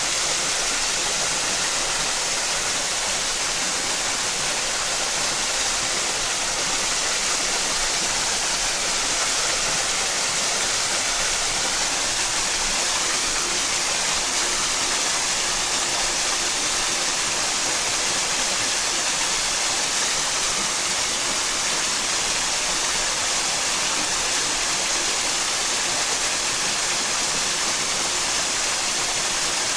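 Mountain headwater stream running in a steady, even rush of water with no let-up.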